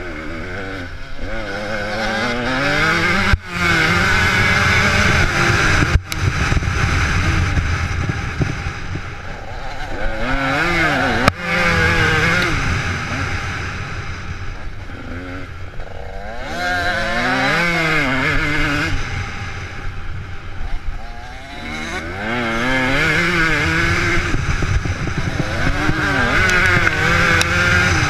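Motocross dirt bike engines revving hard, their pitch rising and falling over and over as the throttle opens and closes, with a few sharp knocks in between.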